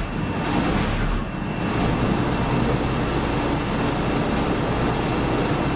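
Diesel railcar rolling slowly along the track, a steady rumble of engine and wheels on rail.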